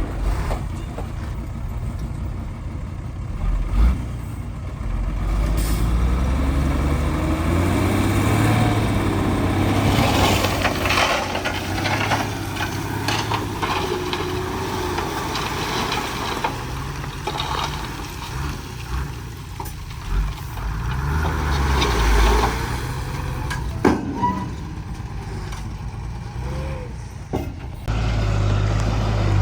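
Heavy diesel machinery running, with a steady low rumble, wavering whines and a few sharp metallic knocks.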